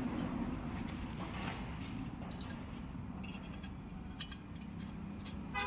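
Steady low rumble of background road traffic, with scattered light clicks and ticks.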